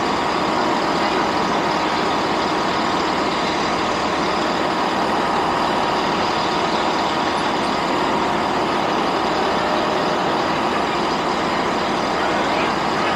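A diesel train idling at a steady level, its engine and equipment making an even hum with faint steady whines above it.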